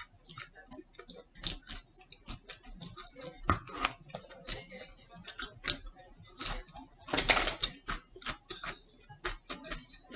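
Close chewing and mouth clicks of someone eating a chicken nugget: a rapid, irregular run of small clicks and crunches, with a louder burst of noise about seven seconds in.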